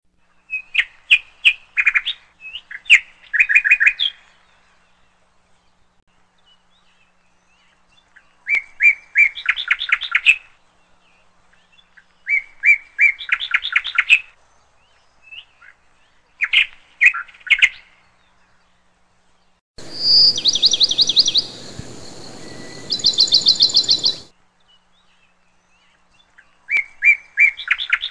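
Small bird chirping in short bursts of quick, repeated notes and trills, a new phrase every few seconds. For a few seconds past the middle, higher trills sound over a steady hiss.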